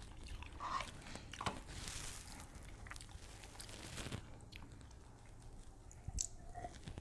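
Faint close-up chewing of grilled king crab leg meat, with scattered small clicks and knocks from handling the crab.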